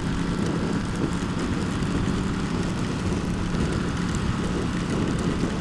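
Ducati XDiavel's V-twin engine running steadily at cruising speed, mixed with wind rush and heavy rain hitting the rider.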